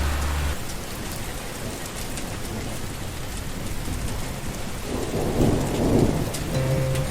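Steady rain falling, with a low rumble of thunder dying away in the first moment and another rumble swelling about five seconds in.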